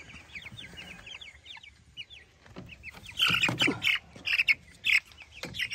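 A flock of three-week-old Cornish Cross chicks peeping: many short, high chirps overlapping, getting louder and busier a little past halfway.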